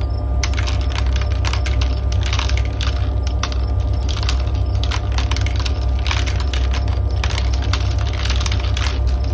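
Marbles clattering down a plastic marble run track, a fast, irregular stream of clicks that thickens into dense rattling at times. Underneath run a steady low white-noise hum and a faint cricket chirring.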